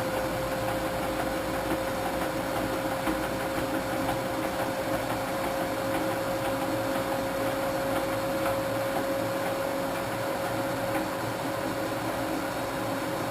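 Old washing machine running steadily, its motor giving a constant whine over a mechanical hum, the whine's pitch creeping slightly upward.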